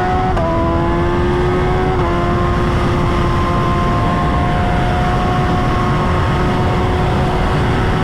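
Vehicle engine accelerating hard. Its pitch climbs and drops sharply at two gear shifts in the first two seconds, then holds high and steady over dense, steady rushing noise.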